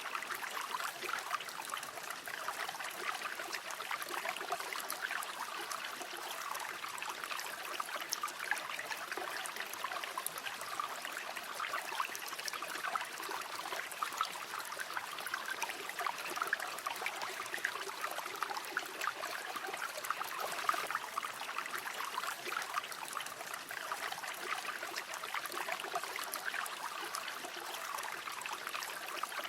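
A river flowing steadily, its water splashing and burbling over stones without a break.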